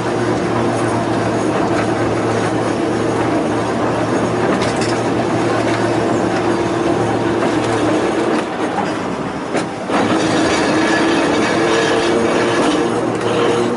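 Volk's Electric Railway narrow-gauge electric car running along the track, with a steady motor hum over wheel and rail noise. About nine seconds in there is a brief lull, then a sharp click, and the running noise picks up again.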